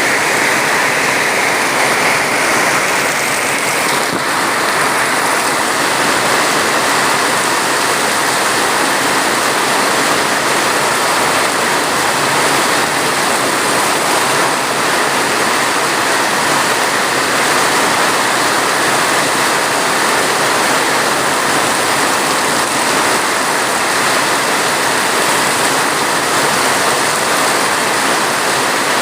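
Steady heavy rain, an even rushing hiss that holds at one level.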